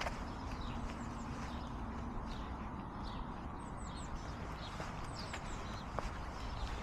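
Small birds chirping in short, high, downward-sweeping notes, over the walker's footsteps on paving slabs and a steady low background rumble.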